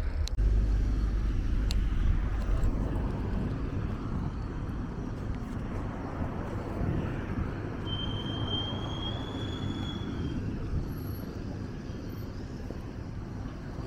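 Steady outdoor rumble and hiss, with a thin high whistle held for about two and a half seconds from about eight seconds in.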